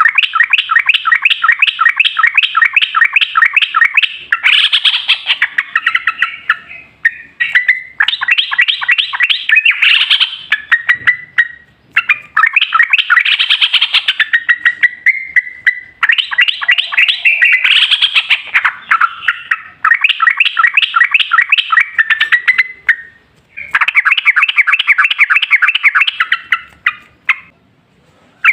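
Yellow-vented bulbul (trucukan) singing long rapid rolling phrases ("ropel panjang"): fast runs of repeated chirping notes, about ten a second, in bursts of a few seconds with short pauses between.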